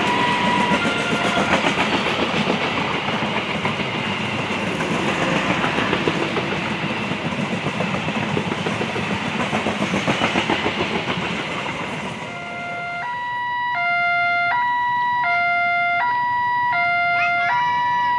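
Passenger coaches of a train rolling past at speed: a steady rush of wheels on rail that fades about twelve seconds in. This leaves a level-crossing warning alarm sounding on its own, alternating evenly between two tones, one switch roughly every three-quarters of a second.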